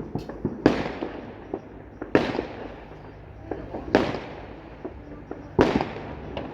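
Fireworks going off: four loud bangs about every one and a half to two seconds, each fading out in a long echo, with smaller pops and crackles in between.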